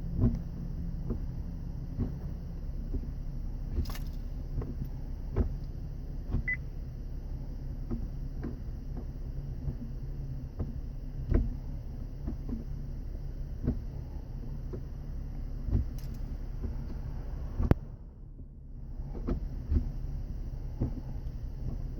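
2011 Chevrolet Camaro running with a steady low hum, with irregular clicks and clunks as the gears are worked. This is the hard shifting and grinding that the owner ties to the car being hit from behind. The hum dips briefly near the end.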